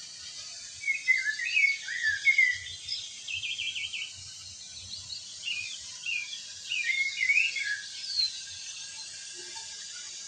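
Small birds chirping in short, quick twittering phrases and trills over a steady high hiss, busiest from about a second in until near the end.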